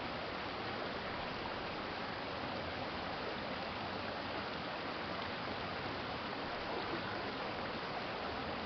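Stream water running and splashing steadily over a shallow bed, an even rushing noise with no breaks.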